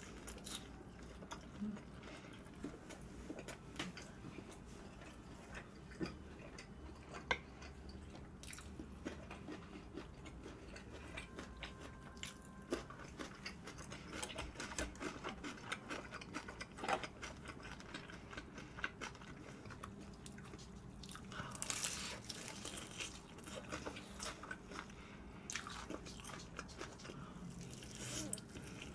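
Close-miked chewing and crunching of crispy fried chicken, a steady run of small crisp clicks. Louder bouts of crunching come about three-quarters of the way through and again at the end, as a fresh piece is bitten into.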